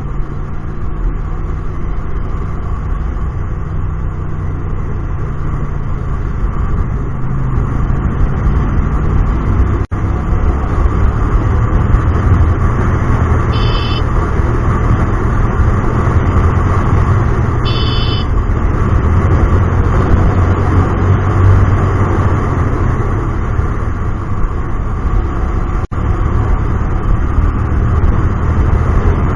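Hyosung GT250R V-twin with an aftermarket Solfer exhaust running under way in city traffic, its engine note shifting as revs change, over road and traffic noise. Two short high-pitched beeps sound a few seconds apart midway, and the sound cuts out briefly twice.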